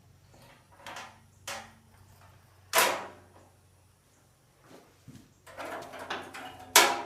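Clunks and scrapes from handling tools and tractor parts: a few sharp knocks, the loudest about three seconds in and just before the end.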